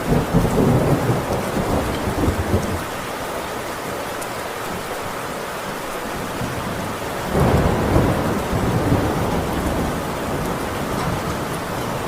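Heavy rain drumming on a tin roof with rolling thunder: a rumble dying away over the first few seconds, then a fresh thunderclap about seven seconds in that rumbles off over the next few seconds.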